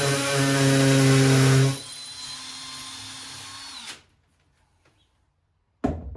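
Electric drill drilling at full load, then running more quietly for about two seconds with a thin high whine before it stops. A single sharp knock near the end.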